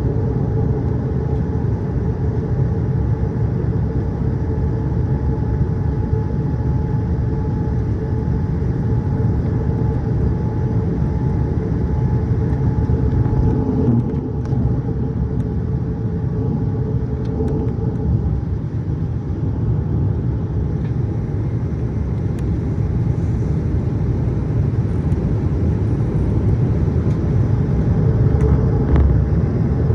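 Boeing 787-8 airliner running in flight: a steady low rumble of engine and airflow noise, with a faint hum tone that fades away about two-thirds of the way through.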